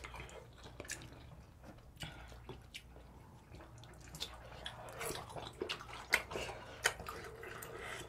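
Close-miked eating sounds: wet chewing and mouth smacking on soft, chewy rice-dough fish cakes, with scattered light clicks of forks and spoons against bowls.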